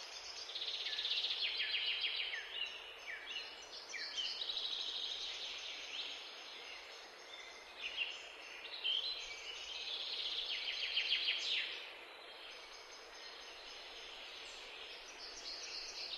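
Several songbirds chirping and trilling, with bursts of quick repeated notes. The calls go quiet about twelve seconds in and start again near the end.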